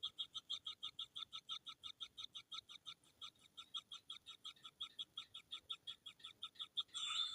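Kingfisher nestlings giving a rapid, steady series of short, high begging notes, about seven a second, with a louder harsh burst near the end: hungry chicks calling for food.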